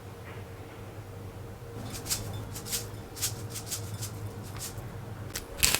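A steady low hum, then irregular clicks and taps of kitchen utensils from about two seconds in, loudest near the end.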